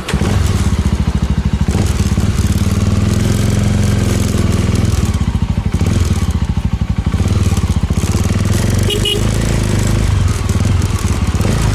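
Suzuki GSX250 motorcycle engine running loudly and steadily as the bike rides off, coming in suddenly at the start. A brief high beep sounds about nine seconds in.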